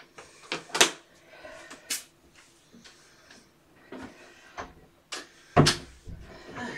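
Several sharp knocks and clatters, like a cupboard, drawer or door being handled, the loudest about two-thirds of the way through, with faint rustling between them.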